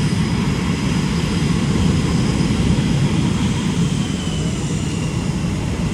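Engine noise of Blue Angels Boeing F/A-18 Super Hornet jets in flight: a steady low rumble, with a faint high whine slowly falling in pitch through the middle.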